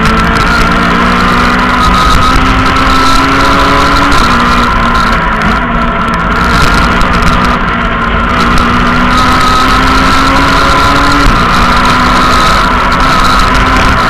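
Rally car engine heard from inside the cabin, running hard under load, its pitch climbing slowly and dropping sharply at gear changes about four and eleven seconds in, over steady road and wind noise.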